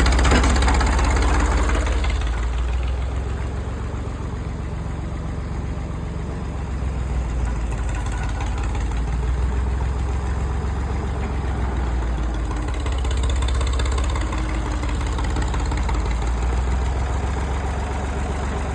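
Engine of a mid-1960s farm tractor running steadily under load while it works a ripper to pull out tree roots. It eases off a little for a few seconds early on, then picks back up.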